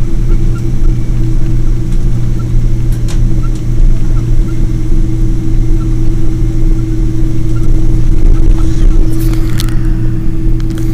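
Boeing 777's jet engines running with a steady low drone and a constant hum, holding even without spooling up; a few light clicks near the end.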